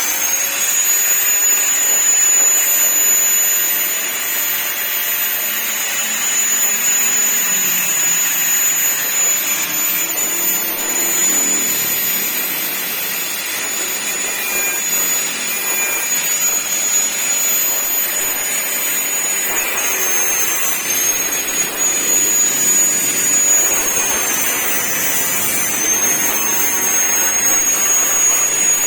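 High-speed power tool spinning up and running with a steady high whine over a hiss. Its pitch dips a little now and then later on, as it is pressed against the work.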